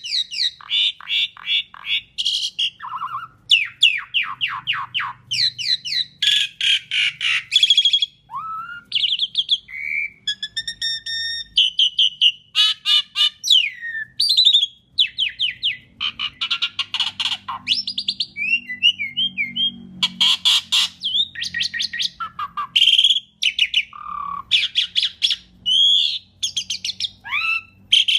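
Asian pied starling (jalak suren) singing continuously, a varied run of harsh chattering notes, fast trills, sweeping calls and a few clear whistles.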